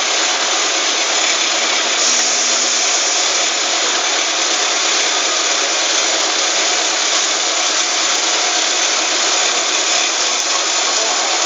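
Tyre bead wire remover machine running with a steady, unbroken mechanical noise.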